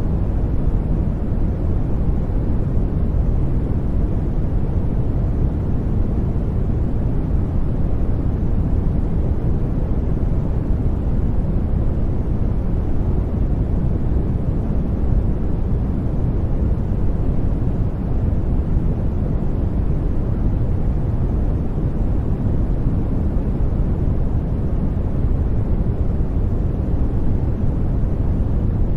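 Steady brown noise: an even, deep rumbling hiss, strongest in the bass and thinning out toward the treble, with no change throughout.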